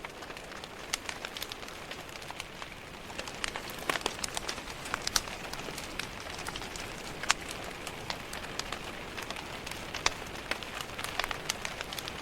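Steady rain tapping against a window, mixed with the irregular crackling and sharp pops of a fireplace fire.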